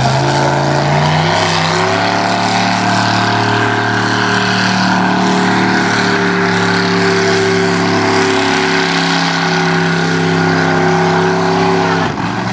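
Pulling tractor's engine running loud at full power: the pitch climbs in the first second or so, holds high and steady, then drops away suddenly near the end.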